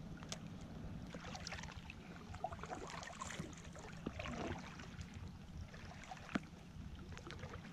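Light rain pattering on the lake surface and the kayak, with small water sounds at the hull: a soft, even patter scattered with drips and a few sharper ticks.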